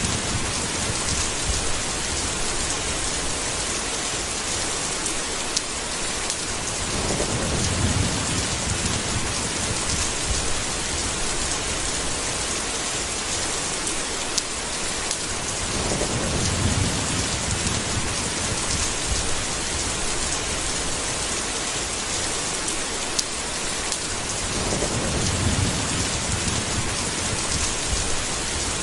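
Steady heavy rain with rolling thunder. The thunder rumbles low three times, about nine seconds apart.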